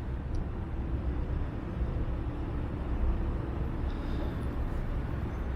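Gusty wind rumbling on the microphone over the low hum of city street traffic.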